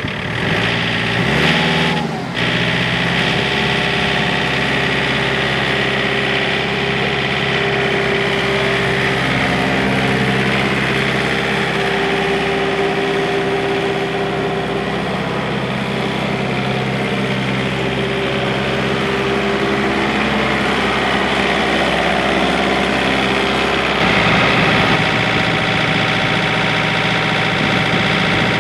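John Deere 4044M tractor's four-cylinder Yanmar diesel engine idling steadily, just after being started. It grows slightly louder and deeper about 24 seconds in.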